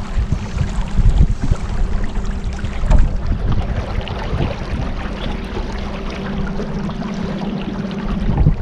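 Motorboat engine running at a steady cruise, a low even drone, with wind buffeting the microphone in gusts and the rush of water along the hull.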